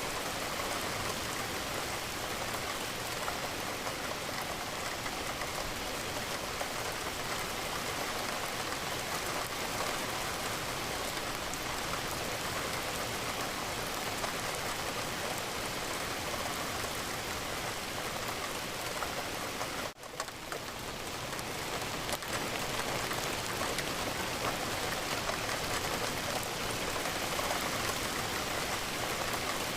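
Steady rain, a dense even hiss of falling drops. About two-thirds of the way through it cuts out for an instant and swells back up over a couple of seconds.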